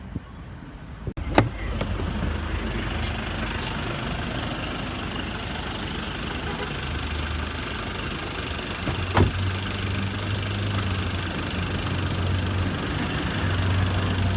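Steady mechanical rumble with a low hum, like a running motor, with a sharp click about a second in and another about nine seconds in.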